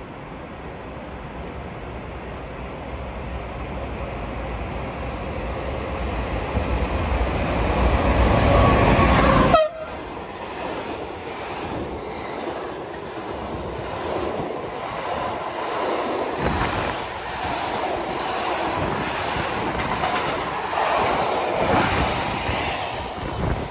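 Hector Rail freight locomotive approaching with a timber train, its rumble building and its horn sounding as it nears. The sound cuts off suddenly about ten seconds in, and then loaded log wagons roll past with a rhythmic clatter of wheels over the rail joints.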